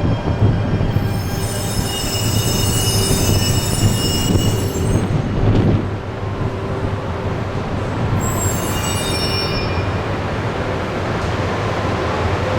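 A Shinkansen train running past at the station, with a steady low rumble and high-pitched wheel squeal in two spells, the first lasting several seconds and the second shorter, about two thirds of the way in.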